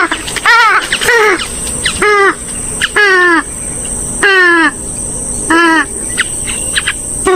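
Gallinule (swamphen/moorhen-type waterbird) calls repeated about once a second, loud and harsh, some wavering and others sliding down in pitch. A steady high-pitched tone runs beneath them.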